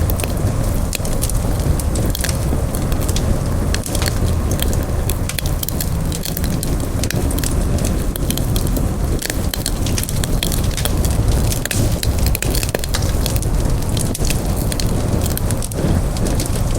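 Campfire burning: many sharp crackles and pops over a steady low noise.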